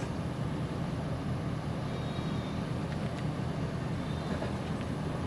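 A motor or engine running steadily with an even low hum.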